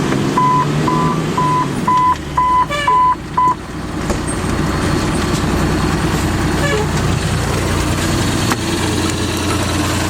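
Fire engine running, its low rumble growing stronger about four seconds in. Over it, a string of about seven short, high electronic beeps at one pitch, roughly two a second, stops after about three and a half seconds.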